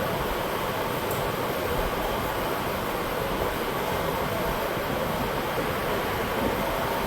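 An electric fan running steadily, a constant rushing noise with no breaks.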